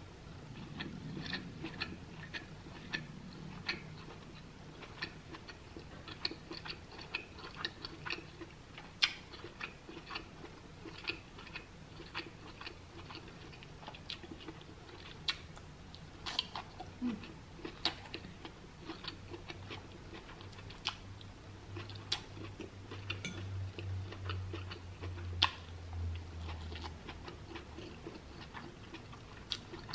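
Close-up chewing and mouth sounds of someone eating seitan in a coconut-turmeric sauce: a steady run of small wet clicks and smacks. A faint low hum comes in through the second half.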